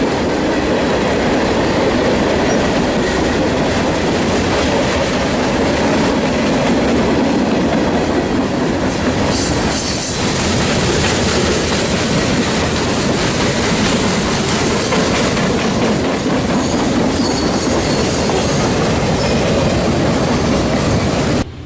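A train's cars rolling past close by, wheels clattering over the rail joints, with high wheel squeal coming and going twice. The sound cuts off suddenly near the end.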